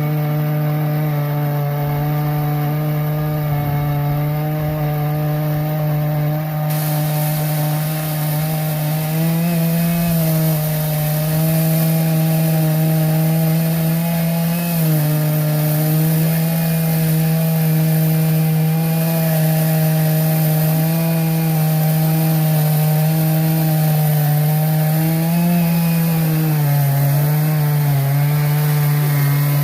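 Engine-driven saw cutting through a wooden post: the motor runs steadily under load, its pitch sagging briefly a few times as the blade bites, then cuts off suddenly at the end.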